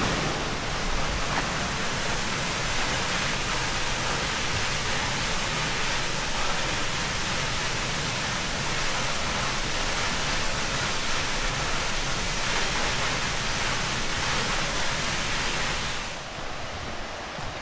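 Waterfall: a steady rush of falling water that drops in level abruptly near the end.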